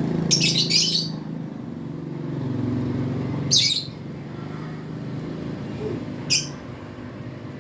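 Lovebirds giving short, shrill chirping calls: a burst of about a second near the start, then two shorter ones a few seconds apart, over a steady low hum.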